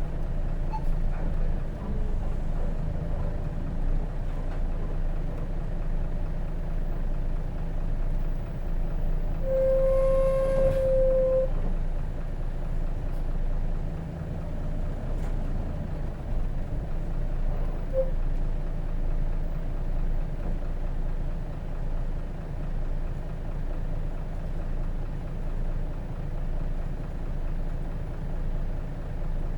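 Hino RJ route bus with its J08C inline-six diesel, heard from inside the cabin while driving: a steady low engine and road drone. About ten seconds in, a single steady tone rings over it for roughly two seconds.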